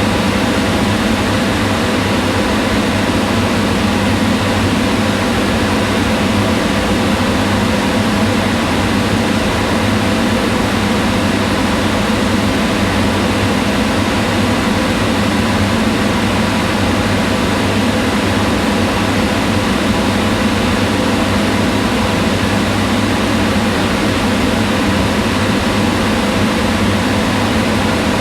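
Kitchen range hood fan running steadily: an even whirring rush with a low hum underneath.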